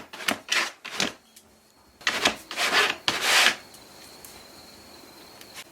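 A dog pawing and rummaging in a toy box for a toy: a quick run of short scratching strokes, then a few longer scrapes about two seconds in.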